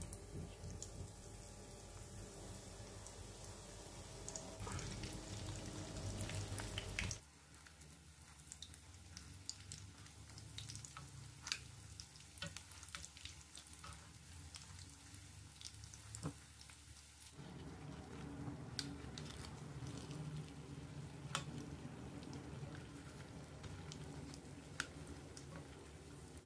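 Spring rolls shallow-frying in hot oil in a frying pan: a steady sizzle with scattered sharp crackles and pops. It drops abruptly quieter about seven seconds in and grows louder again after about seventeen seconds.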